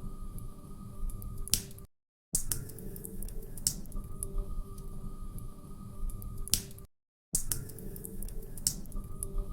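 Wood fire crackling, with sharp pops over a low rumble. It plays as a short loop that drops out to silence for a moment twice, about five seconds apart.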